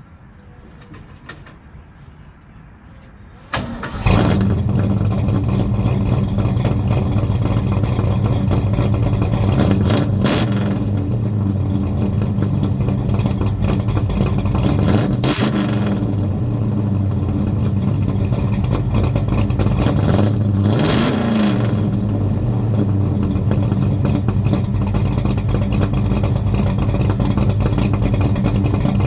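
Car engine starting about four seconds in and idling through a newly fitted Jones Flowpacks full-length exhaust, blipped in three quick revs a few seconds apart. The exhaust joints are not yet welded air-tight.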